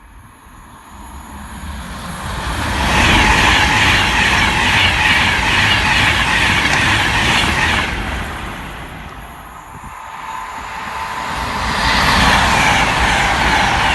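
Passenger trains passing at high speed: a rush of wheel and air noise builds over about three seconds and holds. It eases off about two-thirds of the way through, then builds again near the end.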